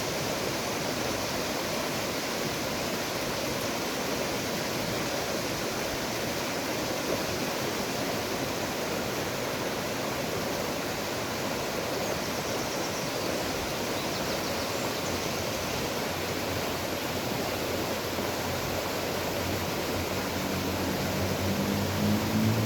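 Steady rush of flowing river water. Near the end, a low engine drone comes in and grows louder.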